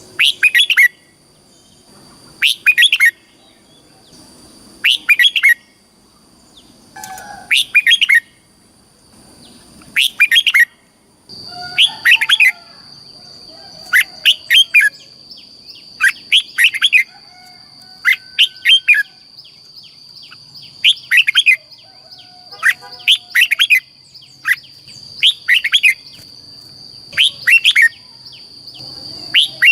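Red-whiskered bulbul singing short, loud, chirpy song phrases, repeated about every one to two seconds, as played to stimulate or train caged bulbuls. A steady high thin tone sits underneath and grows stronger about a third of the way in.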